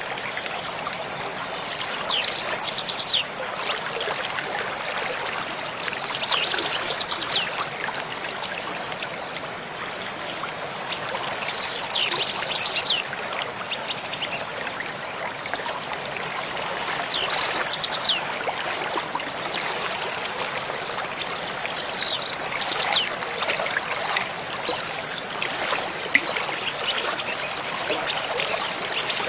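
Mountain stream flowing steadily. A bird sings the same short, fast phrase five times, about every five seconds.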